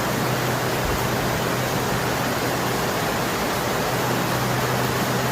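Heavy rain falling steadily, an even hiss of rain with a low steady hum underneath.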